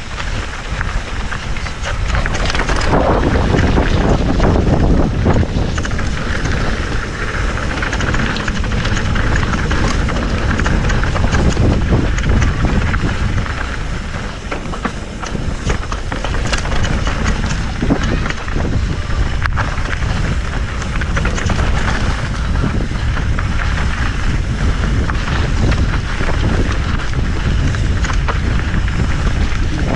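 Wind rushing over the microphone of a mountain bike riding down a rough trail, with the bike's frame and chain clattering and rattling over bumps.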